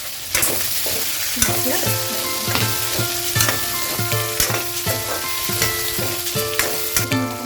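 Chicken frying with onions and garlic in hot oil in a kadai, sizzling steadily while a spatula stirs it. Light plucked-string background music comes in about a second and a half in.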